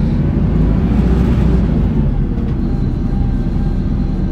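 Hino Blue Ribbon city bus (2DG-KV290N2) driving, with its inline-four turbo diesel droning steadily under road rumble, heard from inside the bus.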